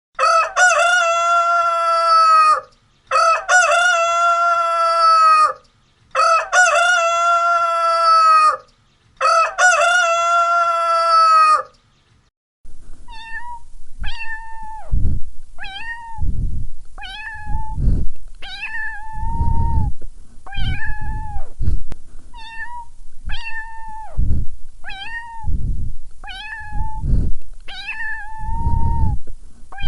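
A rooster crowing four times, each crow about two and a half seconds long. After a short pause, a domestic cat meows over and over, about once a second.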